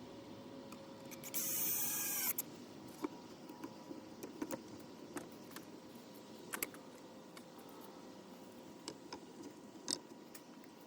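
Scattered sharp clicks and taps, with a rasping noise lasting about a second near the start.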